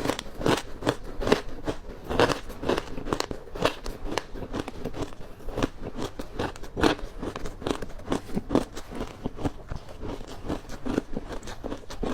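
A person biting and chewing ice close to the microphone: a dense run of sharp, irregular crunches, several a second.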